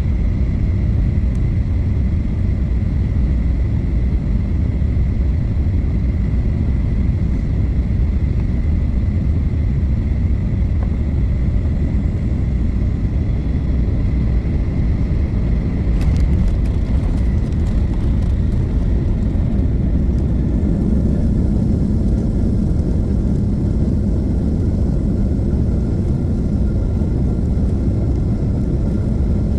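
Steady low rumble of a moving vehicle, with a faint steady high tone over it and a few faint clicks about halfway through.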